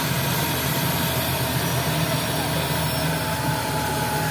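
Emergency medical helicopter's turbine and rotor running steadily, with a continuous low, fluttering hum under a wide rushing noise.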